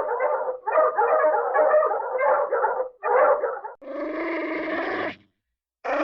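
Hanna-Barbera cartoon sound effects: a fluttering, brass-like blare in three bursts, then two held horn-like tones about a second long each, with a short gap between them.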